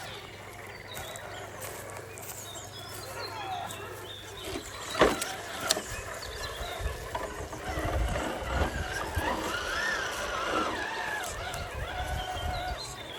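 Small electric RC crawler motor and drivetrain whining, rising and falling in pitch with the throttle. There is a sharp click about five seconds in.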